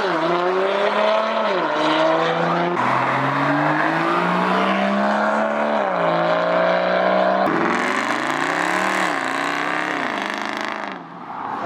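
Car engine revving hard under load, its pitch climbing and then dropping back sharply several times.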